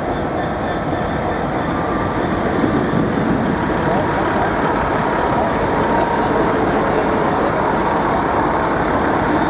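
Class 150 Sprinter diesel multiple unit running along the platform: a steady rumble of its diesel engines and wheels on the rails, with a faint high whine from about four seconds in.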